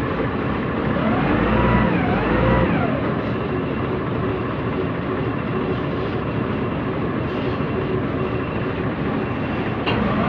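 Heavy diesel engine of a truck or crane running steadily under work, its pitch rising and falling twice about one to three seconds in as it is revved.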